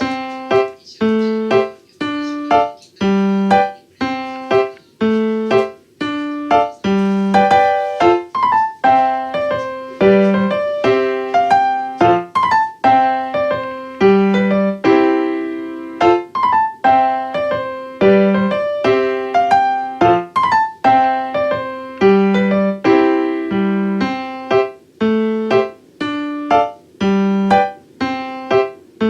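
Background piano music: a calm, evenly paced melody of single struck notes over a repeating low note pattern.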